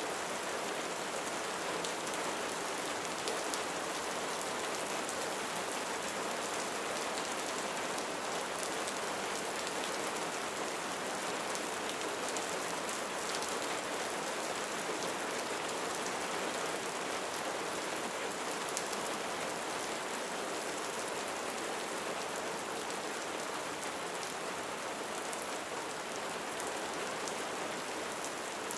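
Steady rain falling on a roof, an even hiss with scattered drop ticks.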